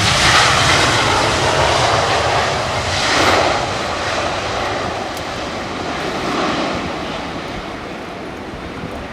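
Airliner engines passing, a loud rush of noise that swells again about three seconds in, then fades toward the end.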